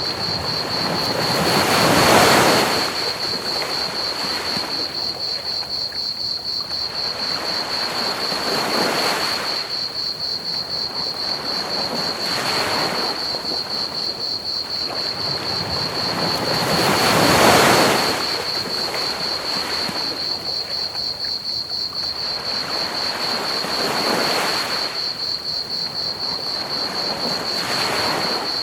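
Ocean waves breaking on a beach, the two biggest about 2 and 17 seconds in with smaller ones between. Under them run a steady high, rapidly pulsing chirring of crickets and a constant hiss of pink noise.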